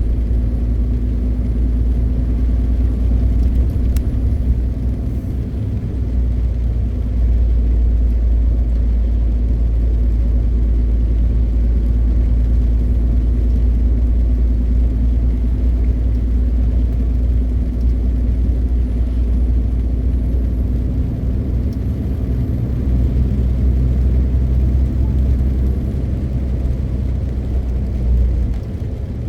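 MAN TGX 520 truck's straight-six diesel engine running under way, a steady low drone with road and tyre rumble, heard from inside the cab. The level dips briefly about five seconds in and again near the end.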